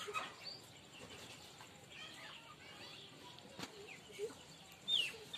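Scattered short, high bird chirps over faint yard background, several of them quick falling notes; the loudest comes about five seconds in.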